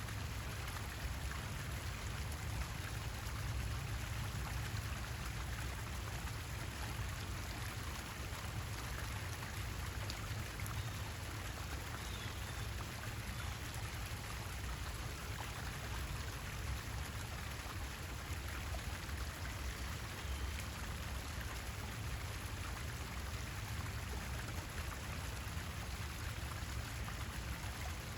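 Steady water noise: an even, unbroken hiss with a low rumble underneath.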